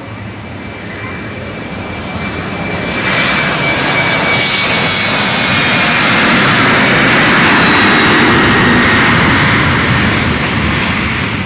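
Airliner engines growing louder as the aircraft passes close by, loudest about two-thirds of the way through and then starting to fade, with a thin high whine that drops slightly in pitch.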